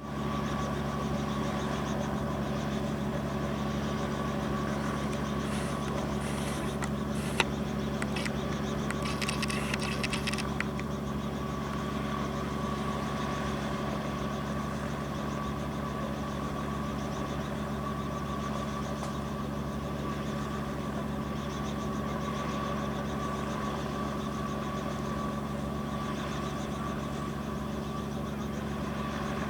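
Helicopter engine running at a steady pitch, with a single sharp click about seven seconds in.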